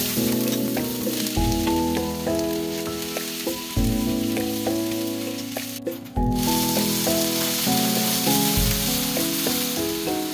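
Oil sizzling in a non-stick frying pan as minced garlic and chopped green onion fry and are stirred with a wooden spoon, then strips of Korean fish cake sizzling as they are stir-fried. Background music with a melody plays over it, and the sizzle cuts out briefly about six seconds in.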